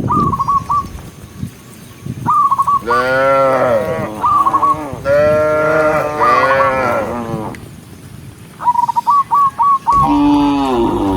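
Cows mooing: long, drawn-out moos in the middle and another starting near the end. Short, repeated bird chirps are heard between them.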